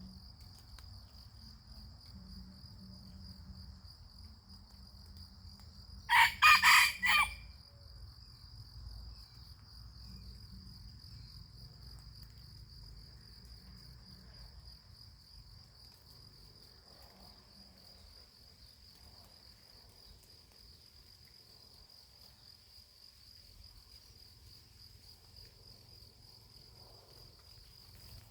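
A rooster crows once, loudly, for about a second and a half about six seconds in. Crickets trill steadily throughout.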